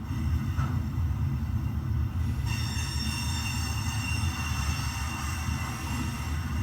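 HO scale model train, a BNSF GP35 locomotive model, running along its track with a steady low rumble. About two and a half seconds in, a high-pitched squeal sets in and holds.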